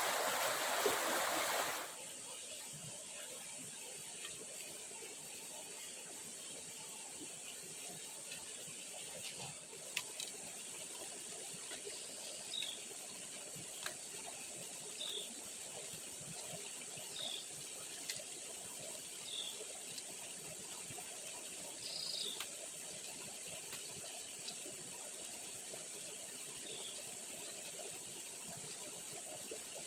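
Rushing stream water for about the first two seconds, then an abrupt change to quieter rainforest ambience: a steady high insect drone, with a short high falling chirp repeated about every two seconds through the second half.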